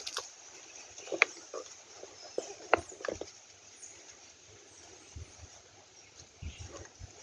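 Scattered, uneven footsteps and small clicks of someone walking slowly over a path, over faint outdoor ambience.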